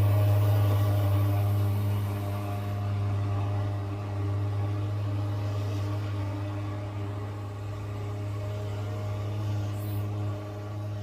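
Disinfection fogging truck's fogger drone, a steady low hum with stacked overtones, growing gradually fainter as the truck moves away.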